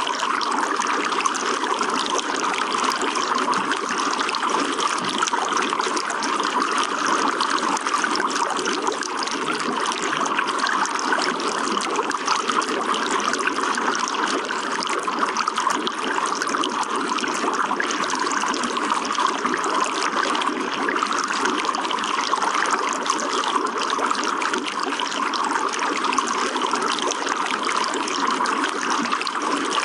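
Running water flowing and splashing steadily without a break.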